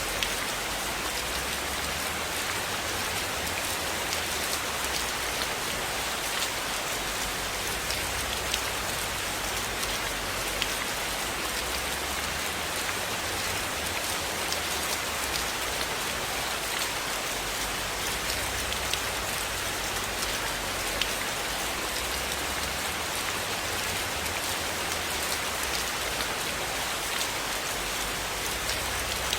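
Steady rain falling on a surface, an even hiss with scattered sharp drop ticks and a low rumble underneath that swells and fades every few seconds.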